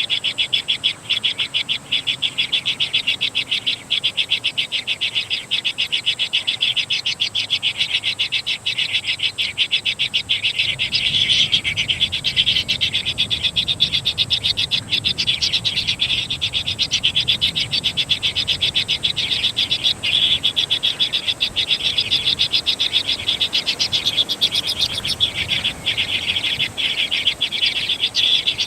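A dense chorus of rapid, evenly pulsing animal calls, with a thin steady high tone above it, running without a break.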